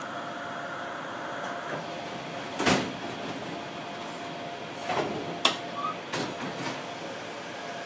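Steady running noise inside the cab of an ex-Keio Inokashira Line 3000 series electric train on the move, with a faint steady hum. A sharp knock about three seconds in, then a cluster of knocks and clatters about five to six and a half seconds in.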